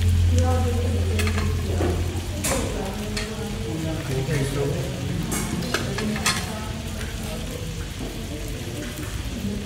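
Pork, sausages and shrimp sizzling on a tabletop Korean barbecue grill pan, with scattered clicks of chopsticks and utensils against the pan and plates. A low hum stops about two seconds in.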